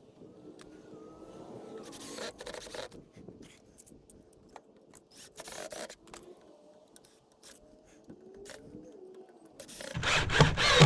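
Scattered scrapes, rasps and clicks of wood being handled, with a louder scraping clatter near the end.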